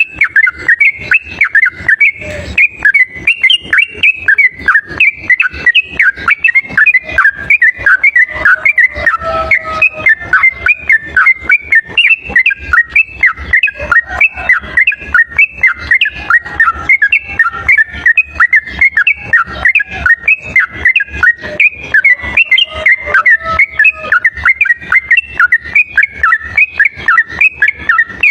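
Sooty-headed bulbul (trucuk) song played as a lure call: a rapid, unbroken chatter of whistled chirps. The recording is loud and runs at full level.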